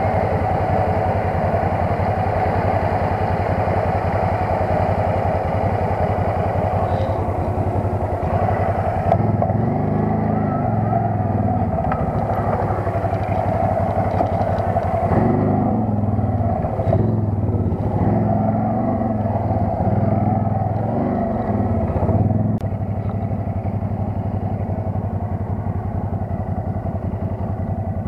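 ATV (quad bike) engine running while riding, its pitch rising and falling repeatedly through the middle of the stretch as the throttle is worked, then settling to a steadier, slightly quieter run near the end.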